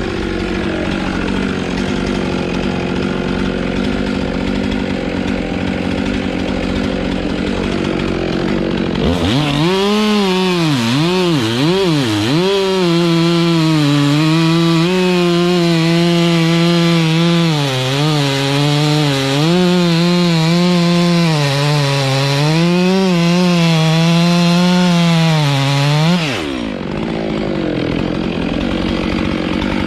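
Two-stroke chainsaw running at low speed, then revved to full throttle about nine seconds in and cutting wood, its pitch dipping and recovering with the load, before dropping back to idle about 26 seconds in.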